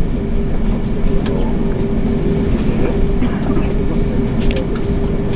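Steady cabin noise inside an Airbus A380: a constant low engine and airflow drone with a steady hum, and a few faint ticks.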